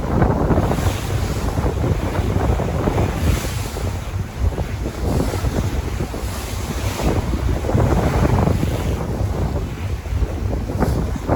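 Sea waves washing and surging in repeated swells, with wind buffeting the microphone in a steady low rumble.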